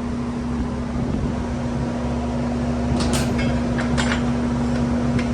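A steady mechanical hum with one constant tone, likely shop ventilation or a fan, runs throughout. A few sharp metallic clinks of hand tools on the bike come about three to four seconds in, and another just before the end.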